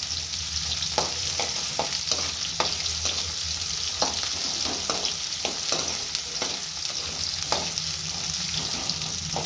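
Bottle gourd and green chilli pieces sizzling in hot oil in a kadhai, with a spoon scraping and knocking against the pan at irregular intervals as they are stirred.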